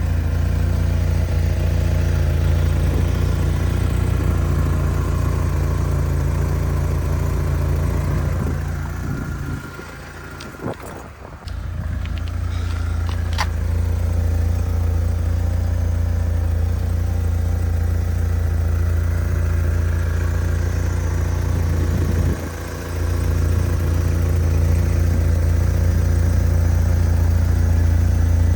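Vauxhall Cavalier C20NE 2.0-litre four-cylinder engine idling steadily. The sound drops away briefly about ten seconds in and again near the end, with a couple of sharp clicks in between.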